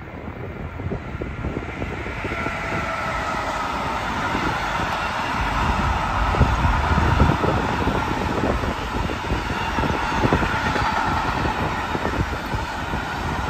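A train passing close by: it grows louder over the first six seconds, is loudest about six to seven seconds in, and then runs on steadily, with the wheels knocking over the rails and a steady ringing tone above.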